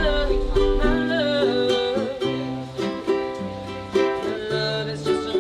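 Ukulele music: a plucked-string tune with a melody line over it.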